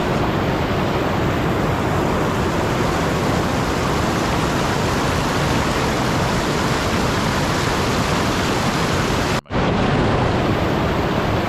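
Steady, even rushing noise with no distinct events, like rain or surf, cut off for an instant about nine and a half seconds in.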